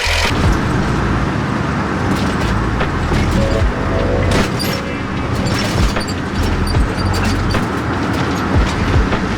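1969 Nissan Cedric's L20A straight-six engine running on its stock exhaust, with a steady low hum, road noise and a few sharp thumps spread through.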